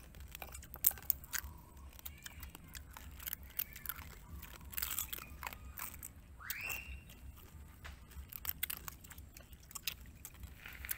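Close-up chewing and crunching of cooked crab, with many sharp cracks of shell being bitten. There is a brief high squeak about six and a half seconds in.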